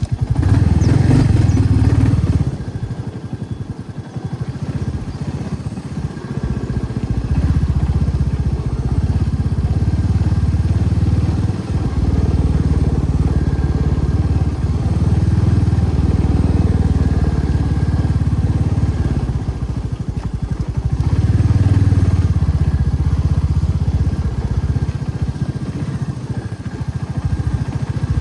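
Motorcycle engine running while riding, a steady low pulsing beat. It eases off about two and a half seconds in and builds again a few seconds later.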